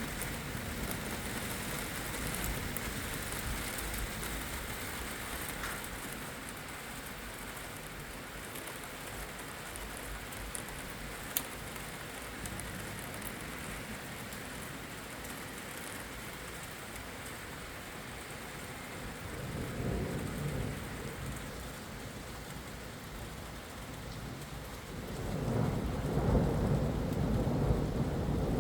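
Steady rain falling in a thunderstorm, with a low rumble of thunder about twenty seconds in and a longer, louder rumble near the end. A single brief click sounds about eleven seconds in.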